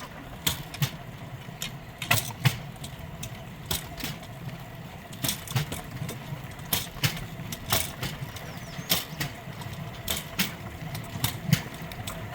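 Pedal-powered rail bike rolling on steel rails: a steady rumble from the metal wheels, with sharp clacks, often in pairs, as the wheels pass over rail joints.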